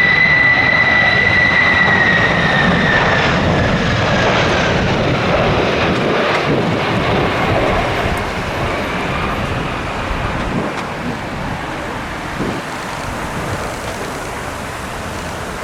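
Boeing 767 jet passing close on final approach. A strong high engine whine sags a little in pitch and fades out after about three seconds, leaving a broad jet rumble that slowly dies away, with gusty wind buffeting the microphone.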